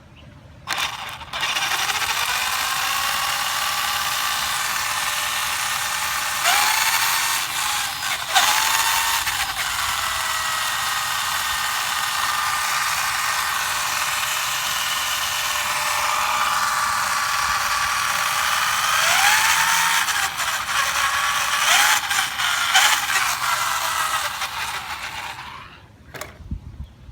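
Small electric RC vehicle's motor and geared drivetrain whining steadily with a gritty gear noise. Its pitch swoops up several times with throttle and settles back, and it stops about a second before the end.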